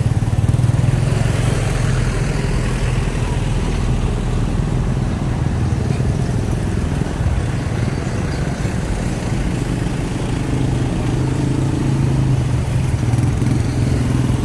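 A vehicle engine running steadily, a constant low hum with no change in speed, amid road traffic.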